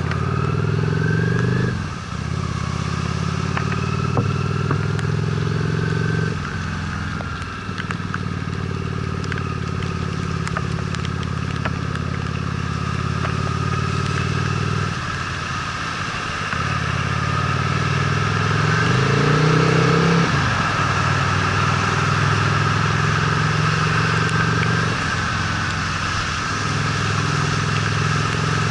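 Honda Steed V-twin motorcycle being ridden, the engine note climbing under throttle and breaking off briefly at each gear change, about five times, over a steady hiss.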